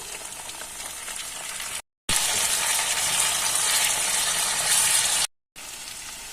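Taro (kochu) curry with freshly added tomatoes frying in hot oil in a pan, sizzling. The sizzle drops out briefly twice, and the middle stretch between those gaps is much louder.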